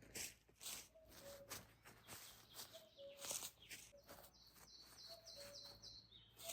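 Birds calling: a low two-note call that steps down in pitch, repeated every second and a half or so, and a short run of higher chirps in the second half. Faint scattered clicks and rustles sound between them.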